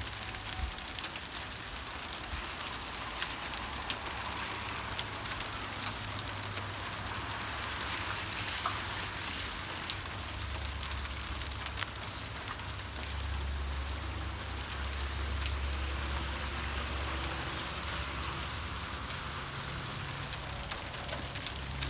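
Ice pellets of freezing rain falling steadily, a dense patter of small hard ticks on surfaces. A low hum swells in the middle.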